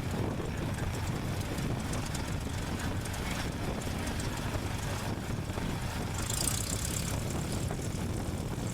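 Cessna 172's piston engine and propeller running steadily at low power, heard as a dense low rumble through the tail-mounted camera, with a brief hiss of wind about six seconds in.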